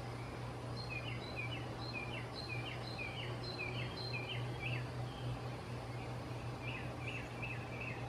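A bird chirping in quick runs of short high notes, about three a second, starting about a second in and again near the end, over a steady low hum.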